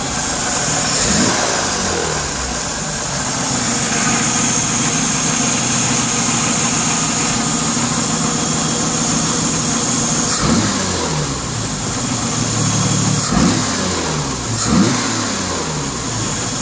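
An engine idling, revved up and let fall back to idle several times: once about a second in, again around ten seconds, and twice near the end.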